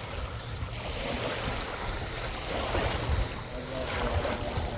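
Wind buffeting the microphone: a continuous rushing noise with an uneven low rumble.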